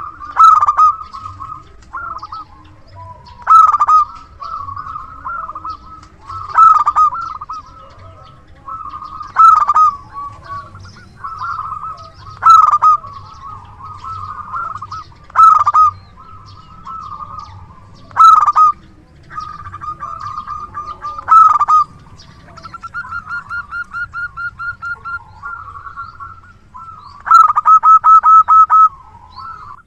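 Zebra dove (perkutut) cooing over and over, a loud phrase about every three seconds, then rapid runs of short clipped notes near the end.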